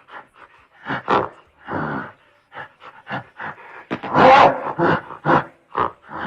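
Animal sound effect: a string of short grunts and groans, with a longer, louder one about four seconds in.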